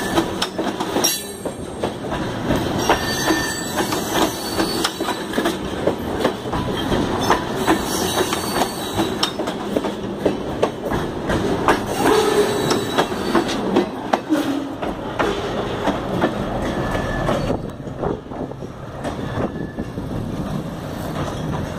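Freight train cars rolling on the track: steel wheels clatter and clank with a steady rumble and now and then a brief thin squeal. The sound eases somewhat in the last few seconds.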